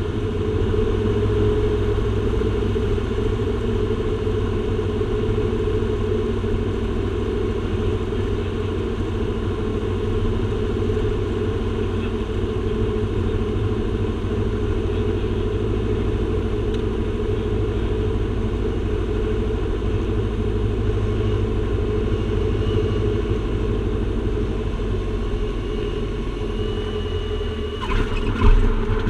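Aircraft engines running with a steady drone. A short knock comes near the end.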